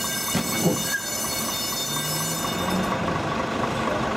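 A train running with a steady, high-pitched metallic squeal that fades out about three seconds in.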